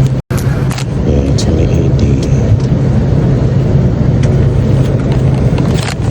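Steady low hum of an airliner cabin during boarding, with faint voices about a second in. The sound cuts out completely for a moment right at the start.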